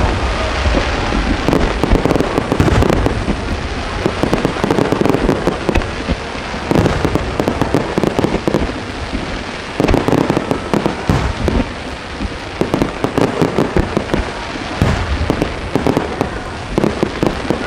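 Fireworks display: many aerial shells bursting in quick succession, with overlapping booms and crackling and louder clusters of bursts several times.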